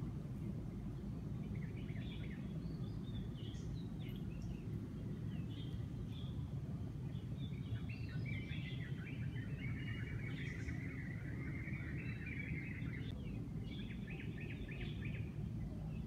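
Several songbirds chirping and twittering, with a longer trilling run in the middle and a quick chatter near the end, over a steady low background rumble.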